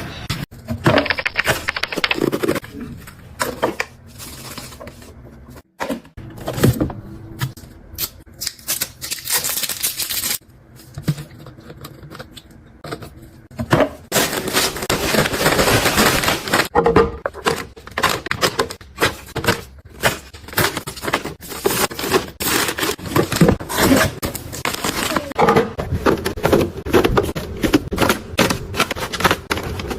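Hands sorting and packing small items into storage: a dense run of clicks, taps and scrapes, with stretches of rustling near the start and about halfway through.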